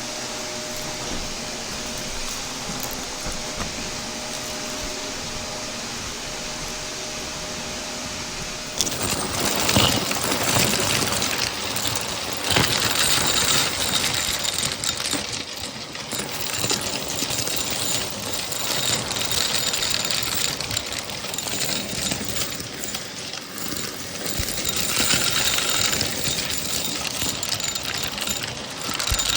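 Shark vacuum cleaner running with a steady hum, then about nine seconds in it turns suddenly louder and rougher, crackling and rattling with rapid clicks as it sucks up crunchy debris.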